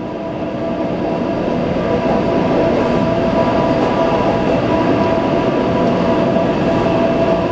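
Taipei Metro C381 train running, its noise building over the first two seconds and then holding steady, with a steady whine from the drive over the rumble of the wheels on the track.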